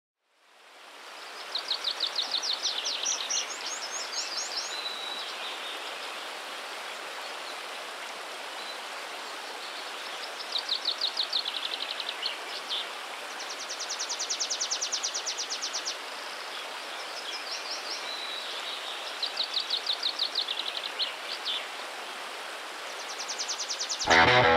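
Songbird singing: about five phrases of rapid high trilled notes over a steady rushing background, fading in over the first second. Rock music begins near the end.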